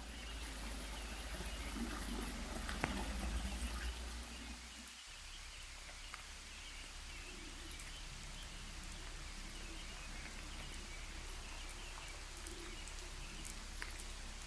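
Rain and thaw water dripping in a forest, with scattered small ticks and a few soft thuds in the first few seconds.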